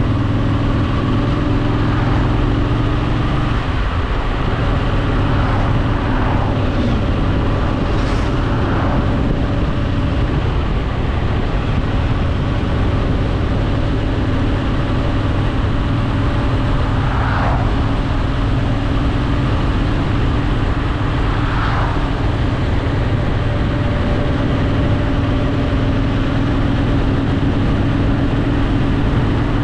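Honda Shadow VT750's V-twin engine running steadily at cruising speed, heard from the moving motorcycle with a constant rush of wind and road noise. The engine note shifts slightly once, a few seconds in.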